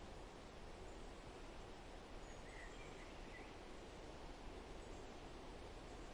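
Faint forest ambience: a steady hiss of background noise with a few faint, short bird chirps about two to three seconds in.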